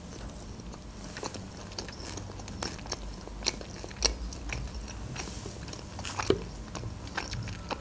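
Close-up mouth chewing a mouthful of Caesar salad: irregular crisp crunches and wet chewing sounds.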